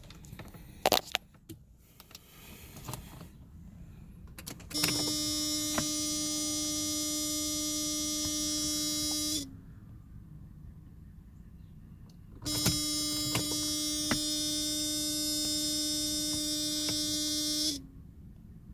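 1992 Mercedes 600SEL's V12 being cranked by the starter motor in two attempts of about five seconds each, a steady whine that stops without the engine catching. The owner takes it for a lack of ignition. A few clicks come before the first attempt.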